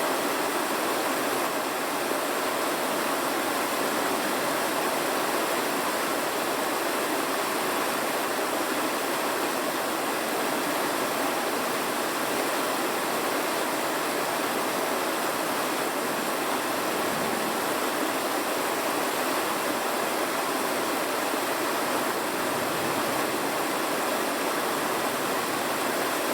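Steady, even rushing noise with no distinct crackles or tones.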